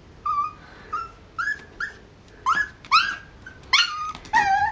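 Small dog whining and crying in a series of short, high-pitched whimpers, about eight of them, each rising at the start, growing louder and longer toward the end.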